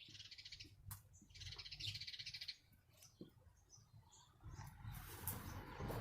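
A bird's rapid trilled chirping in two bursts, the second a little over a second long. A soft, noisy hiss builds near the end.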